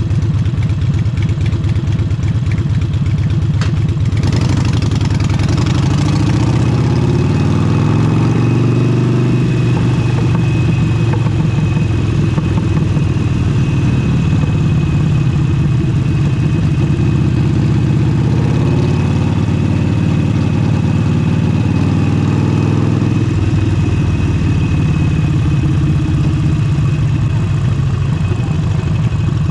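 Harley-Davidson Forty-Eight's air-cooled 1200 cc V-twin with an aftermarket exhaust, under way. It runs at a low, pulsing beat at first, pulls away about four seconds in with its pitch rising, holds steady, then drops back to a low, pulsing beat about three-quarters through. Wind noise on the microphone runs under it from the pull-away onward.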